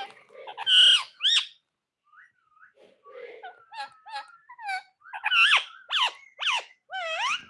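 Pet parrot calling: a run of short whistled, gliding squawks and chirps. Two loud calls come about a second in, then after a short pause a quick string of calls, loudest toward the end.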